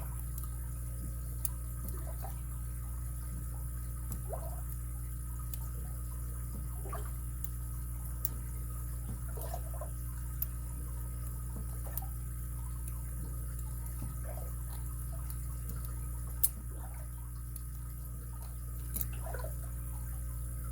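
Faint, scattered metal ticks and clicks of lock picks working inside a padlock, with one sharper click about two-thirds of the way in, over a steady background hum.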